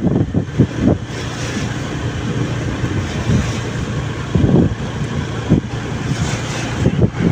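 Motorbike engine running steadily while riding, with wind buffeting the microphone in low thumps.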